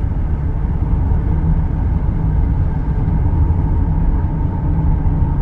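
Car driving along a highway: a steady low road and engine rumble.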